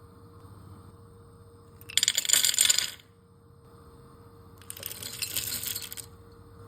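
Dry pasta poured into a pot, clattering in two bursts, the first louder and about a second long, the second softer and longer.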